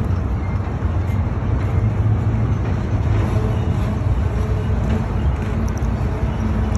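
Freight train of autorack cars rolling past at close range: a steady low rumble of wheels on rail.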